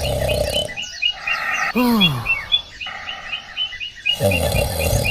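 A countryside ambience of birds chirping in quick repeated notes, with frogs croaking in patches that start and stop. Just before two seconds in, a short pitched sound slides downward.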